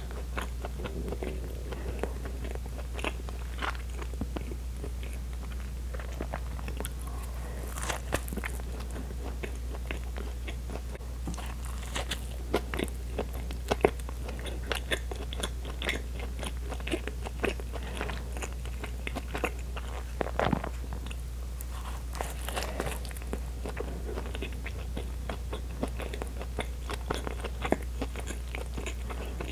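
Close-miked chewing of a soft bread roll: irregular wet mouth clicks and smacks, a few louder ones, over a steady low hum.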